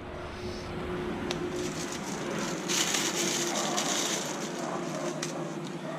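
A vehicle engine running steadily, with a hissy stretch around the middle and a few light clicks.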